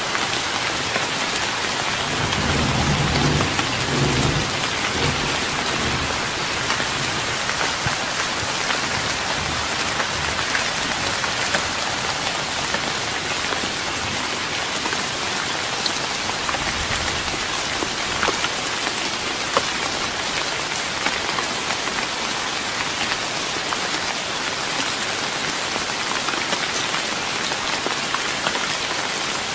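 Steady rain falling on a wooden deck, with single drops ticking through it. A low rumble of distant thunder swells about two seconds in and fades a few seconds later.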